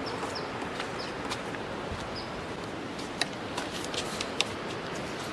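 Steady outdoor background hiss with a few short, high bird chirps in the first couple of seconds and several sharp clicks in the second half.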